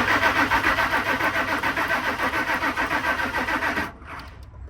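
2000 Ford Excursion's 5.4-litre V8 being cranked by the starter with a steady rhythmic churn, never catching, and stopping about four seconds in. It cranks without firing even with fuel poured into the throttle body, which the mechanic takes for no spark.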